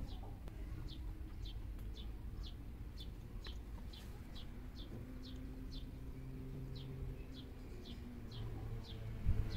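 A bird calling over and over: a short, high, falling chirp repeated about twice a second, with a low steady rumble underneath.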